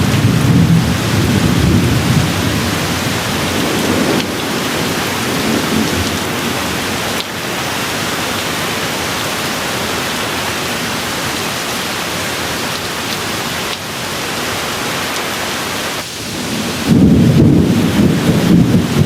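Steady rainfall with rolling thunder. A deep rumble at the start dies away over the first few seconds, the rain carries on as an even hiss, and a new peal of thunder rumbles in near the end.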